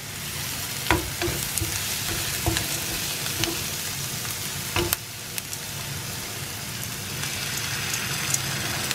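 Chopped onions and vegetables sizzling in hot oil in a nonstick frying pan while being stirred with a wooden spatula. A few sharp knocks of utensils on the pan come through, the clearest about a second in and just before five seconds.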